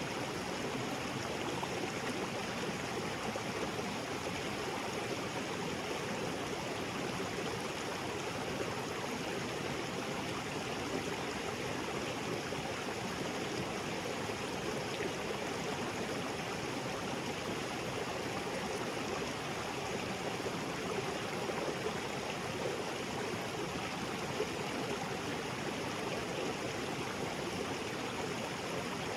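A small waterfall splashing down into a rocky creek, with the steady rush and gurgle of flowing water and no break or change.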